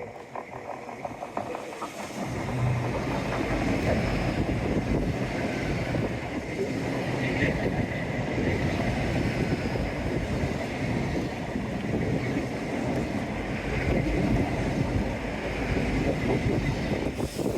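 A train running past close by on the line beside the sea wall: a steady rumble and rail noise that swells about two seconds in, carries on, and drops away right at the end.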